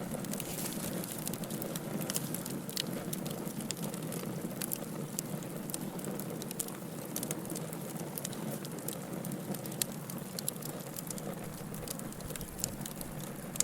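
Wood fire burning in a fireplace, crackling and popping with irregular sharp snaps over a steady hiss of the flames.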